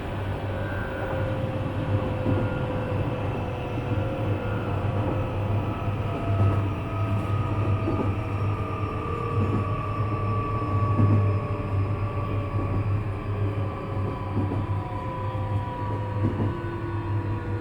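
Interior running noise of a Nishitetsu 3000 series electric train motor car: a steady low hum with a motor whine that slowly falls in pitch as the train slows, and a few faint knocks midway.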